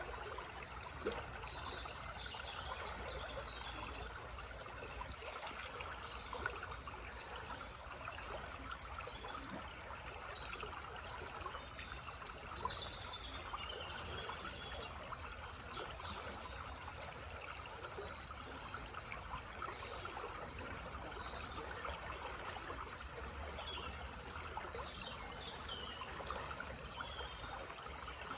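Small forest stream trickling and burbling steadily, with birds chirping and singing over it, including a run of quick repeated notes in the middle.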